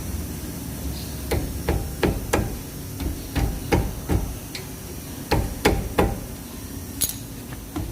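Hammer striking metal, about a dozen sharp blows in irregular runs, tapping a worn pin to take up its play, which lessens it though a little remains.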